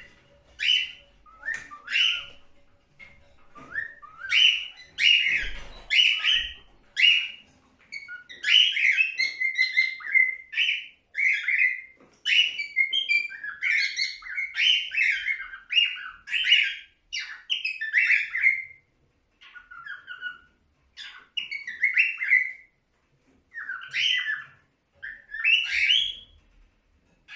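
Pet cockatiel whistling a song: a long string of short whistled notes and phrases with brief pauses between them.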